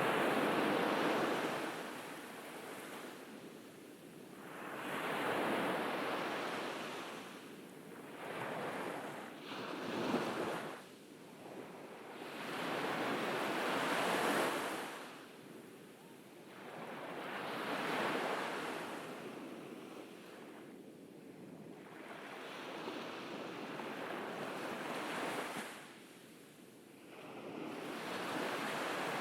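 Gentle ocean waves breaking on a beach, a wash of surf that swells and fades every few seconds as each wave rolls in and draws back.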